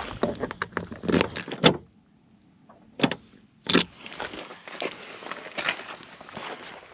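A run of sharp knocks, clicks and scuffing handling sounds, the loudest one to four seconds in, with a short quiet gap about two seconds in.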